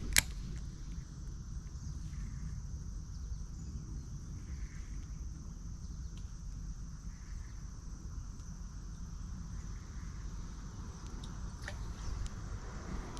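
Insects droning steadily in a high even tone over a low rumble, with a sharp click right at the start and a few faint ticks near the end.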